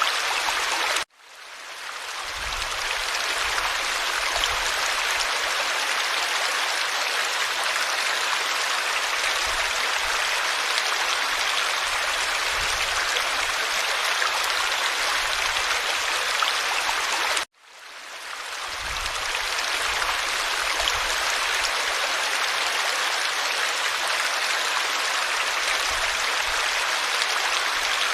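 Forest stream flowing with a steady rushing and babbling. The sound cuts out suddenly twice, about a second in and again a little past halfway, each time fading back in over a couple of seconds.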